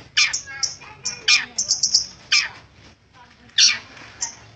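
Long-tailed shrike (cendet) calling insistently. It gives four harsh calls about a second apart, each sliding down in pitch, with quick high chirps in between.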